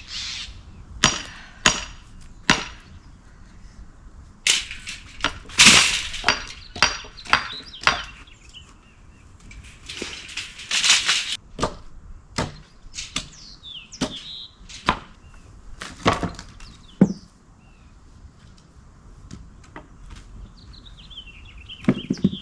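Sledgehammer blows on a steel splitting wedge driven into an oak round, a long series of sharp strikes in runs at irregular spacing. The wood cracks as it splits apart.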